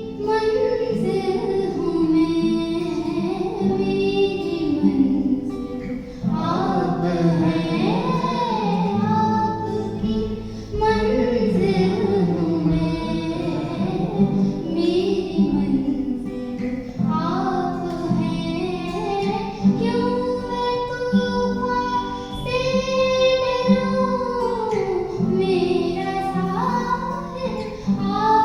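A girl singing a song, her voice gliding between notes and holding some long notes.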